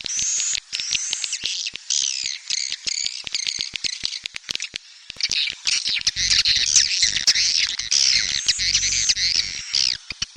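Swiftlet lure call: a dense, fast stream of high chirping and twittering from swiftlets, the call recording played to draw swiftlets into a nesting house. It grows denser and louder about six seconds in.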